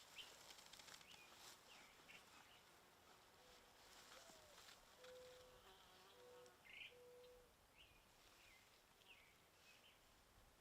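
Near silence: faint field ambience with a few faint, scattered chirps and short buzzing notes, like insects.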